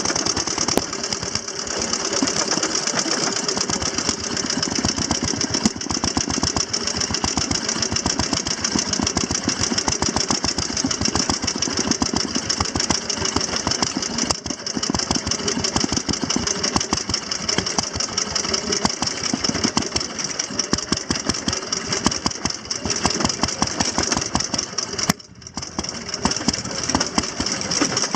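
Antique motorcycle engines running with a rapid, even firing beat, loud and steady, with a brief drop in level near the end.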